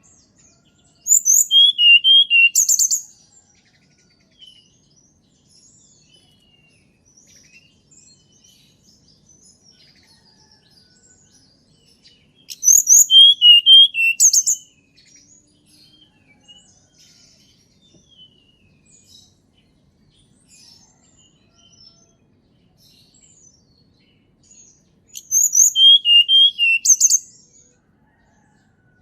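Tledekan gunung songbird singing three loud phrases of rapid, high chirping notes, each about two seconds long and roughly twelve seconds apart. Faint scattered bird chirps come between the phrases.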